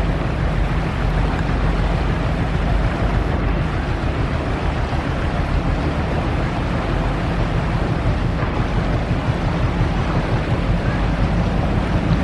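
Sea-truck ferry's engine running steadily as a low, even hum, under a steady wash of wind and water noise.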